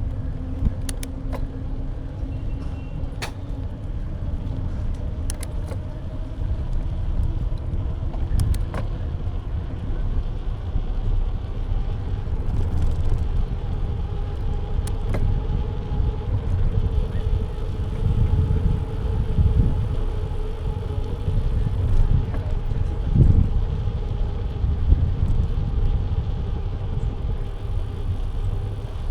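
Wind buffeting and road rumble on an action camera clamped to the side of a moving bike, with a faint steady hum underneath. Sharp clicks and rattles from the bike and the camera mount come every few seconds in the first part.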